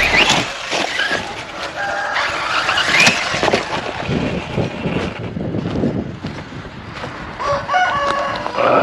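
Electric 1/8-scale Serpent SRX8 RC buggy running on 2S LiPo power, its motor whining up and down in pitch as it accelerates and slows over the ground. A chicken calls near the end.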